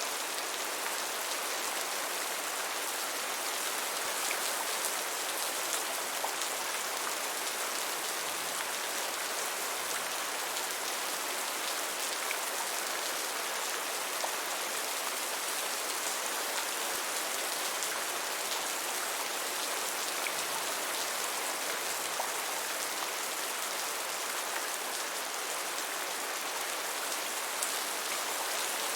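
Steady gentle rain, an even hiss of falling rain with scattered individual drops ticking on a surface.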